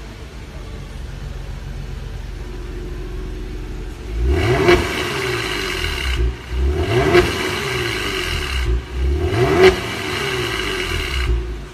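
Genesis G70 engine through an A.Jun aftermarket variable exhaust, idling and then revved three times. Each rev rises and falls in pitch, about two and a half seconds apart.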